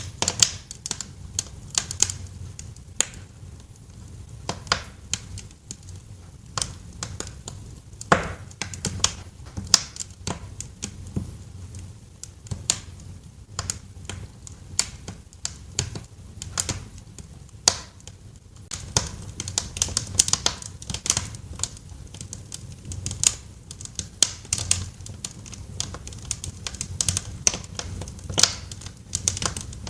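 Wood fire crackling in a fireplace: irregular sharp pops and snaps over a low steady rumble, busier in the second half.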